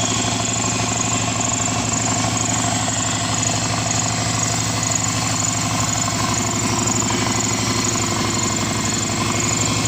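Subaru EJ255 2.5-litre turbo flat-four engine idling steadily, run without a downpipe so the exhaust is open straight after the turbo.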